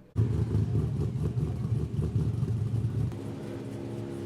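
A car engine running with a deep, fluttering rumble, changing about three seconds in to a steadier, even sound.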